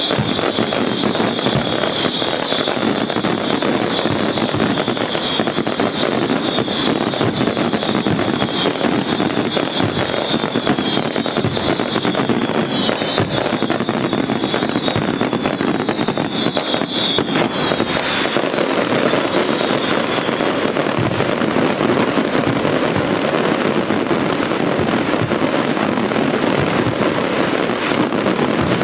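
A dense, unbroken barrage of daytime fireworks going off in rapid succession. A high shrill whistling runs over the bangs and fades out about two-thirds of the way through, while the barrage carries on.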